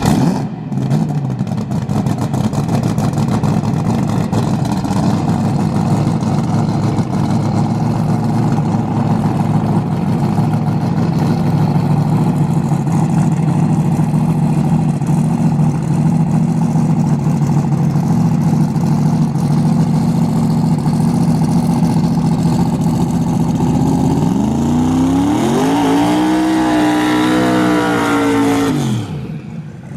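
Turbocharged drag race car engine running loud and steady, then about 24 seconds in it revs up in a rising and falling sweep for a few seconds before dropping away.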